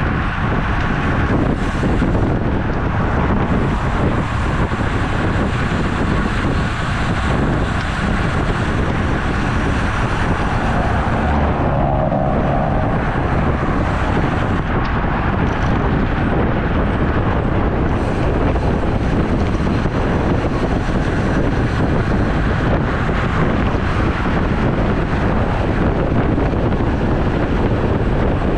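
Steady, loud wind buffeting on the microphone of a camera riding along on a road bike, with a brief pitched sound about twelve seconds in.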